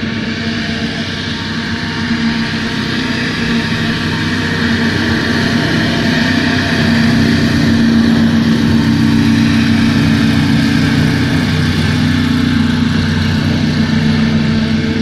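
Hovercraft engine and propeller fan running steadily, rising slightly in pitch and level about six seconds in as it revs up a little.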